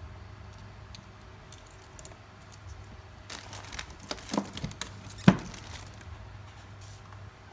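Handling noises on a repair bench: a run of small clicks and rustles, with one sharp click a little over five seconds in, over a steady low electrical hum.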